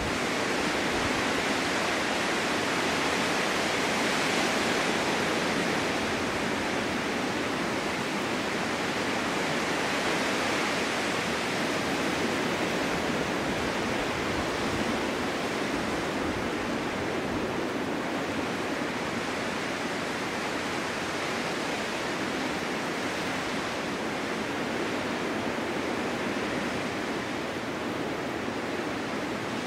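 Steady snowstorm wind: a dense, even hiss that swells slightly and eases without ever dropping away.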